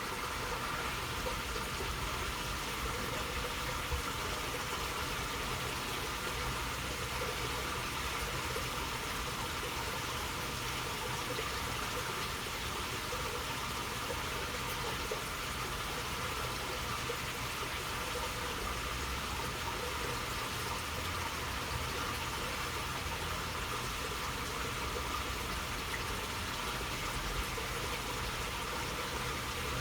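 Steady burble of flowing water in a narrow waterway, an even rushing murmur with a low rumble underneath.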